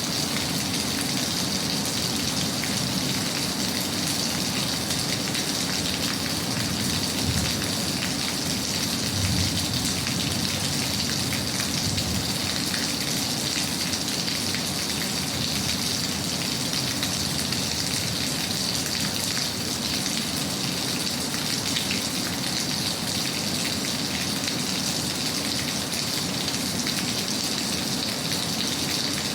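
Steady rain falling, an even, unbroken sound that does not change.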